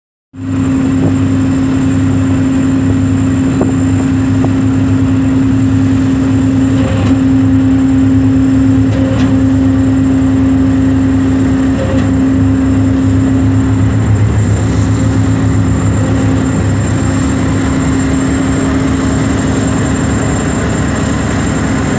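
Boat engine running steadily at a constant speed, a continuous low hum with no change in pitch.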